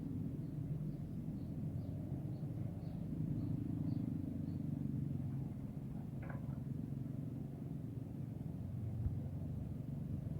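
Strong wind buffeting the microphone: a steady low rumble. Faint high chirps, about two a second, run through the first few seconds.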